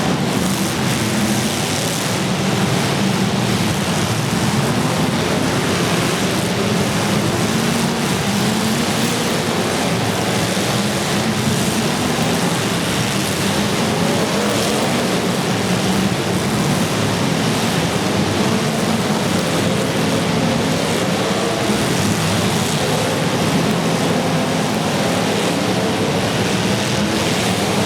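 Demolition derby cars' engines running and revving together in a loud, continuous din, their pitch rising and falling.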